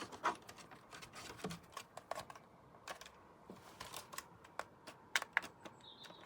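Irregular plastic clicks and taps from handling a small desk fan and pressing its switch. No motor hum follows: the fan is broken and won't run.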